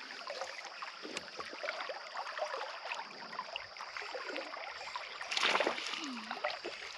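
Shallow creek water trickling and splashing, with a louder splash about five and a half seconds in, over a steady high-pitched buzz.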